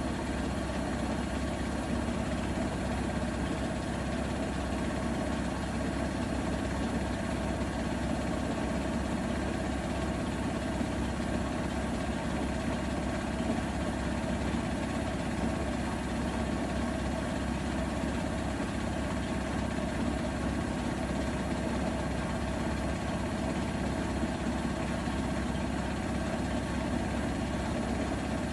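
Bosch Serie 4 front-loading washing machine in its final high-speed spin, running at a steady speed: a constant low hum with a few steady whining tones over it, and no change in pitch or level.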